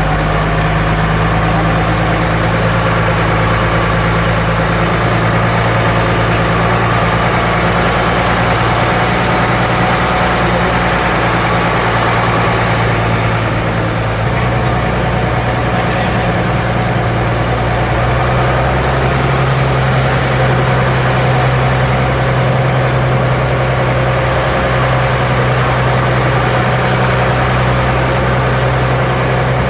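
An engine running steadily with a low hum, its pitch shifting slightly about halfway through and again a little later.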